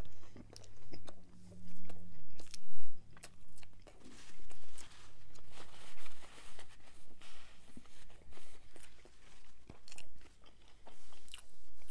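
Close-miked eating of a chicken sandwich: a bite into the sesame bun, then crunching and chewing with many small sharp crackles.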